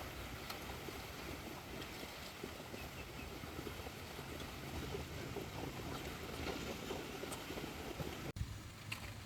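Outdoor ambience: a steady low rumble with scattered faint ticks, broken by a sudden brief dropout about eight seconds in, after which a steadier low hum continues.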